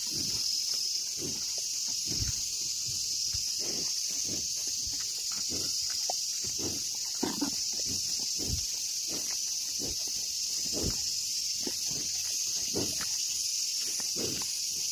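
Steady high insect buzzing, with irregular soft low thuds and snuffles about once a second.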